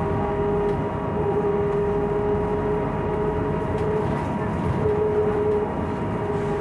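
Ride noise inside a Scania 6x2 trolleybus at cruising speed: the electric traction motor's steady whine over the rumble of the road and body.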